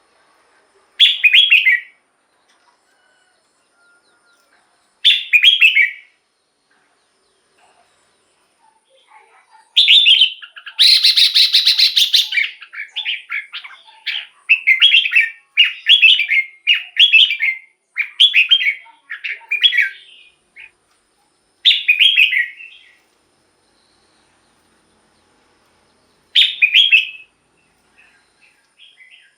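Red-whiskered bulbul singing: short warbled phrases a few seconds apart, with a longer run of phrases in the middle that opens with a harsh, scratchy chatter.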